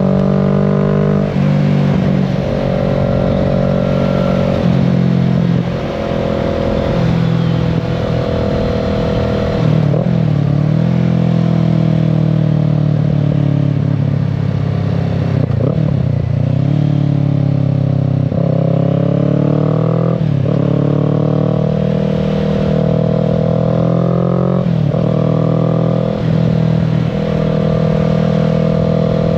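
Kawasaki Z650's parallel-twin engine under way, its pitch climbing with throttle and falling back sharply about half a dozen times, with steady stretches between.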